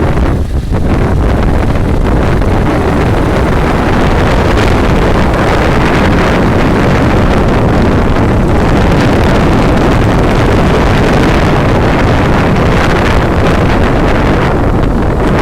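Loud, steady wind buffeting the microphone, a continuous low rumbling rush with no distinct events.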